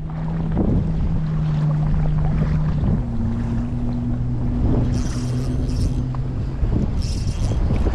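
Boat's outboard motor running, its steady tone stepping to a different pitch about three seconds in, with wind buffeting the microphone.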